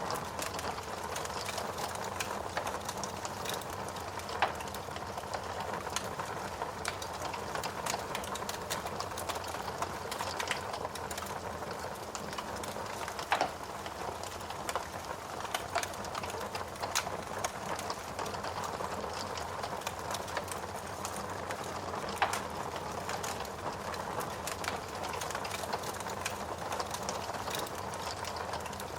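Wood fire burning in a fireplace, crackling steadily with many small snaps and a few louder pops.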